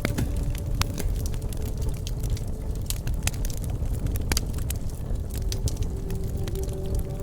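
Campfire burning, with frequent irregular sharp pops and crackles over a low steady rumble of the flames.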